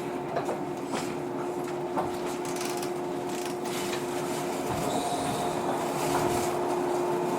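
JR 115-series electric train standing at a station, its onboard equipment humming steadily with a few light clicks.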